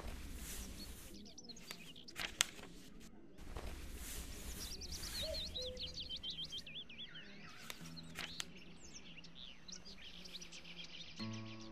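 Small birds chirping in quick, rising and falling calls, thickest from about four seconds in, over bursts of rustling noise and a sharp click a little over two seconds in. Music comes in near the end.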